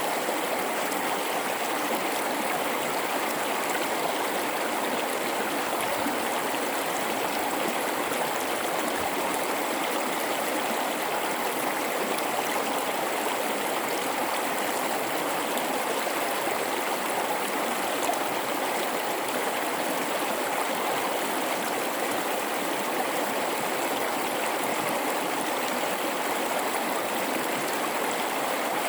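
River water flowing through a gorge, a steady, unbroken rush of running water.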